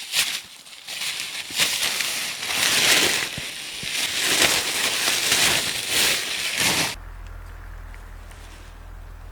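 Footsteps crunching through snow, a crunch about every second, stopping suddenly about seven seconds in; a low steady rumble follows.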